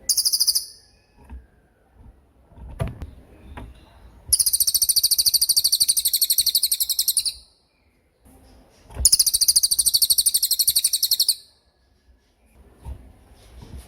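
A cililin songbird singing its 'tembakan' song: very rapid, high-pitched trills. There is a short burst at the start, then a long trill of about three seconds and another of about two and a half seconds, with brief pauses between them.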